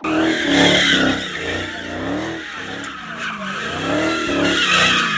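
Tyres squealing while a Dodge Hellcat does donuts, its supercharged V8 running hard underneath. The squeal wavers up and down in pitch throughout.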